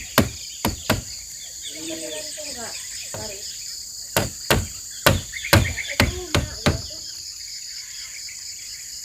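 Repeated sharp knocks of a hand tool striking: a few blows in the first second, then a quick run of about seven blows between four and seven seconds in. A steady high chorus of crickets or other insects runs underneath.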